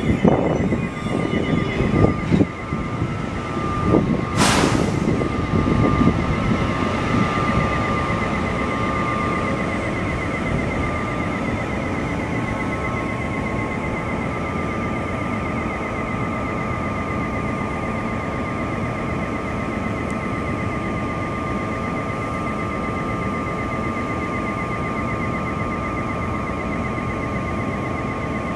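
NJ Transit bi-level commuter train pulling out of the station, its last cars rattling past in the first few seconds, with a short loud hiss about four seconds in. After that comes a steady rumble as the train draws away, with a steady high-pitched tone underneath.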